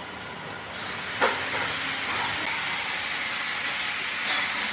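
A steady, high hiss of air that switches on just under a second in, with a short knock soon after it starts.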